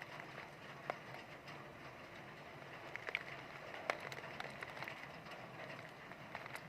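Heavy rain falling steadily, with a few sharper drip or splash clicks about a second in and around three to four seconds in.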